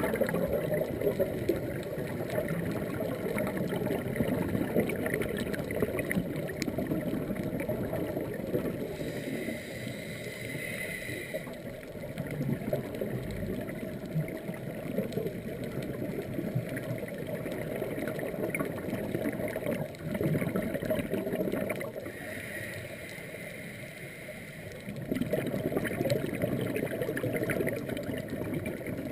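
Scuba diver breathing through a regulator underwater: long stretches of bubbly gurgling from exhaled air, broken twice by quieter, hissing inhalations about ten seconds in and again a few seconds past twenty.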